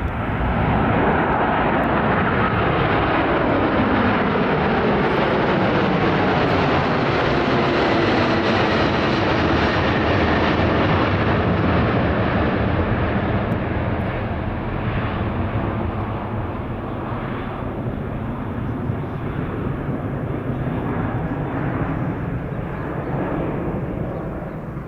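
Airbus A380 with its four turbofan engines passing by in a low demonstration pass: a loud rushing jet noise whose tones slide down in pitch as it goes by, then slowly fading as it moves away over the second half.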